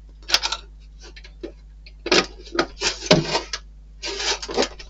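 Small plastic model-kit parts being handled on a table: irregular runs of light clicks and rattles, in three clusters.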